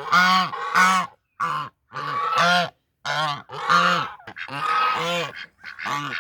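Chinese white geese honking over and over, about ten loud, nasal calls in quick succession. It is agitated honking that the owner puts down to a stuffed toy horse she has brought among them.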